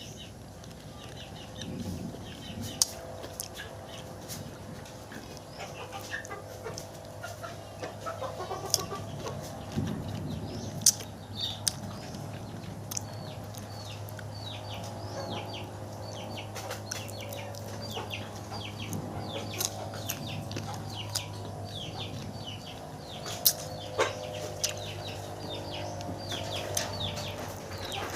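Chickens clucking and peeping: many short, high chirps come one after another, with a few sharp clicks over a steady low hum.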